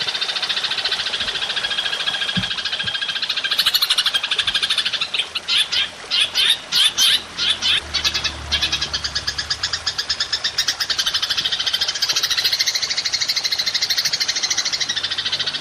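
Belalang emas insect calling in a long, fast, buzzing trill, broken into short choppy bursts from about five to eight seconds in before running on steadily again.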